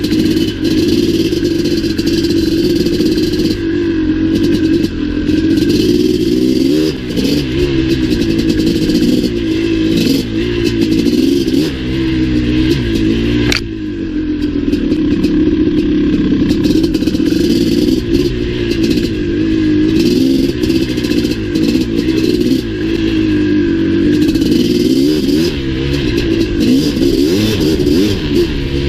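Maico 700's two-stroke single-cylinder engine running on the move, its pitch rising and falling again and again as the throttle opens and closes, over a steady clatter, with one sharp knock about halfway through.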